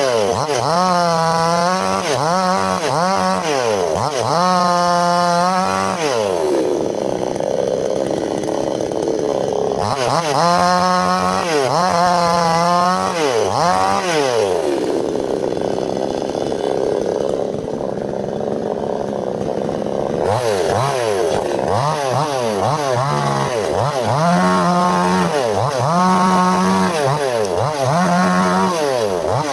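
Two-stroke chainsaw engine, its throttle opened and released over and over so the pitch rises and falls about once a second, with two longer stretches held at a steadier, lower pitch.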